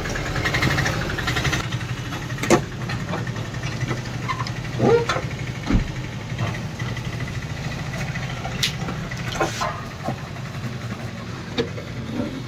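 A car engine idling steadily, with a few sharp clicks and knocks from the plastic wiper cowl panel being handled.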